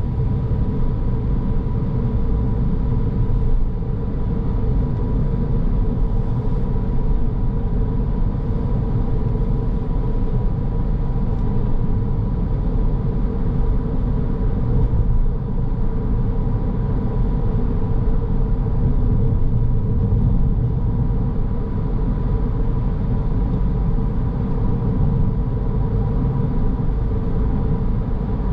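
Car driving along at a steady pace: a constant low rumble of tyres and engine, with a faint steady whine above it.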